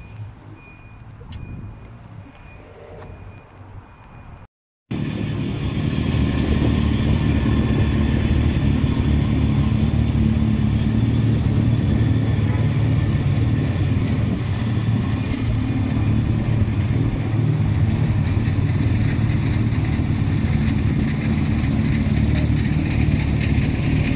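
Rally car engine idling steadily and close by. It starts after a brief dropout about four and a half seconds in; before that there is only a quieter low rumble.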